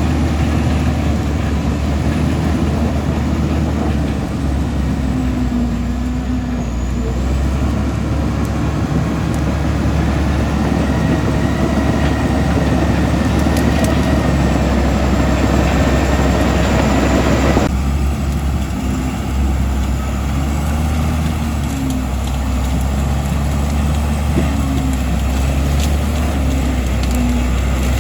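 Komatsu D65E bulldozer's diesel engine running steadily under load. About two-thirds of the way through, the higher-pitched part of the noise cuts off suddenly while the low engine hum carries on.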